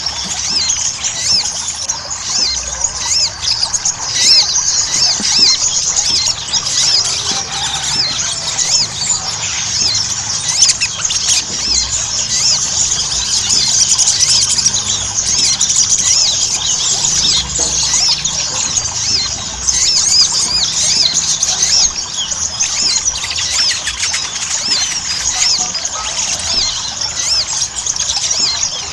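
Crimson sunbird singing constantly, a dense, fast run of high-pitched chirping trills with no pauses.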